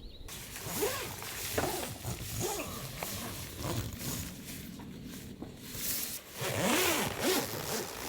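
A zipper being pulled in several short strokes, along with fabric being handled.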